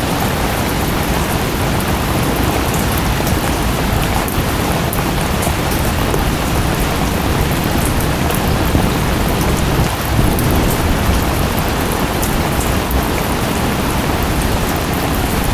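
Rain and a waterfall: a steady, even rush of falling water with scattered sharp drop ticks.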